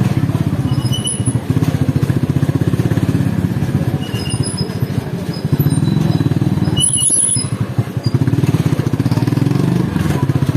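Motorcycle engine running at low speed with a fast, even pulse, with a few brief high-pitched chirps over it.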